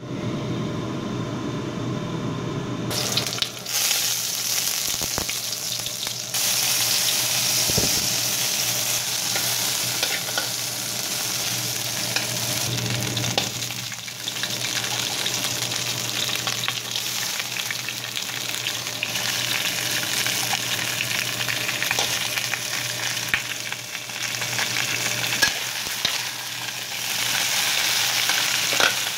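Lobster pieces sizzling in hot oil in a wok: a steady sizzle that grows louder about three seconds in, with scattered light knocks.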